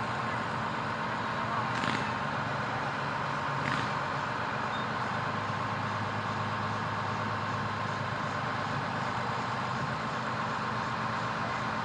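Fire truck engine running steadily as the truck drives, with road noise and two brief clicks about two and four seconds in.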